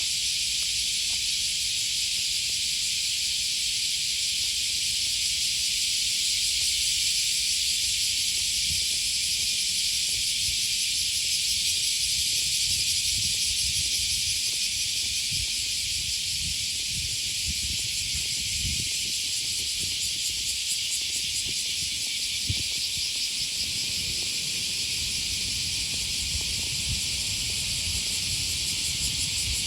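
A chorus of cicadas buzzing, a loud, steady, high shrill drone that does not let up. Underneath it runs a low, irregular rumble with soft thuds.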